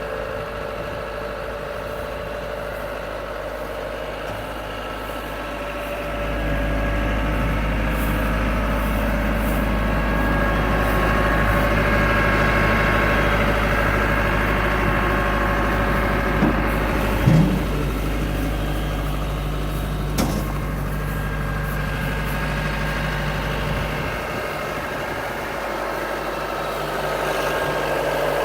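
Cat RT80 telehandler's engine running. It gets louder about six seconds in and drops back near the end, with a short knock or clank about two-thirds of the way through.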